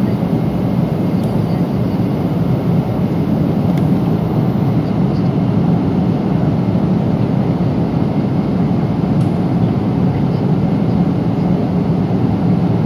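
Steady cabin noise inside a Boeing 777-300 airliner in cruise: the constant low rush of airflow and engines, with a few faint clicks.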